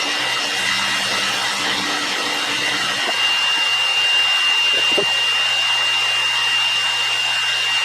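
A power tool or shop machine running steadily, with a constant high whine over a low motor hum.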